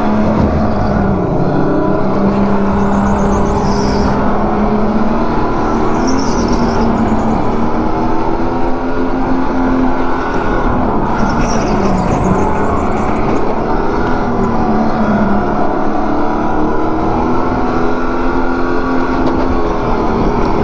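Go-kart engine running at speed, heard from on board the kart, its note dipping and rising again every few seconds with the throttle. The driver finds the kart sluggish.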